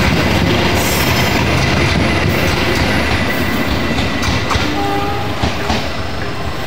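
Passenger train coaches rolling past on the rails: a heavy rumble of wheels clicking over rail joints, with a thin steady high whine from the wheels. The rumble eases slightly as the last coach passes and moves away.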